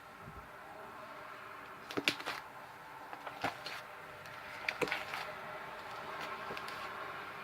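Homemade slime being kneaded and pulled by hand, giving a few short sticky clicks and squelches, the loudest about two seconds in and again near five seconds, over a steady low hum.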